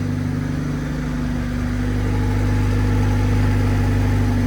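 Freshly swapped Honda B-series four-cylinder engine in a Civic EG hatchback idling smoothly on its first run, with no exhaust fitted. It gets a little louder about two seconds in.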